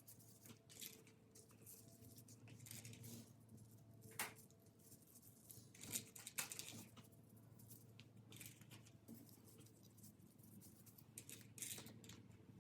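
Near silence with faint, scattered small clicks and rustles of plastic beads and straw pieces being threaded onto pipe cleaners by hand, the two clearest clicks about four and six seconds in.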